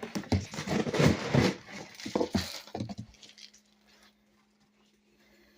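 Clattering and rustling of plates and bowls being handled while cat food is dished out, lasting about three seconds, then falling quiet.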